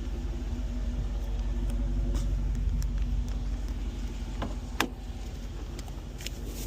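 Car on the move: steady engine and road rumble, swelling slightly early on, with a single sharp click just under five seconds in.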